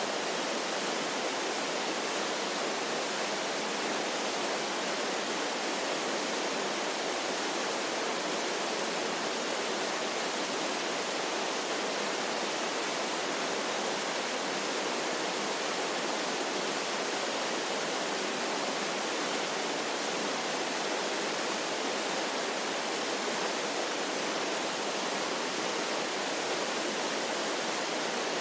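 Waterfall rushing steadily: an even, unchanging hiss with almost no low rumble.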